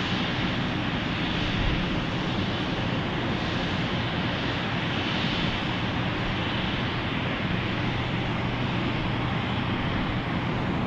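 Airliner engines running, a steady even noise with no clear rise or fall.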